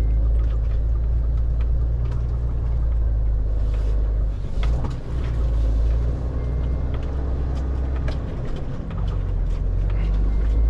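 Loaded FAW JH6 truck's diesel engine running steadily as it drives, a constant low drone with scattered knocks and rattles and a brief dip about halfway through.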